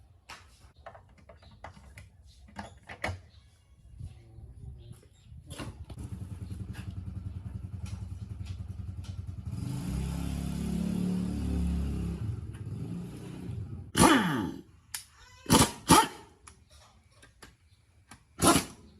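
A motor runs for about ten seconds, growing louder partway through, then stops. Several loud sharp knocks follow near the end.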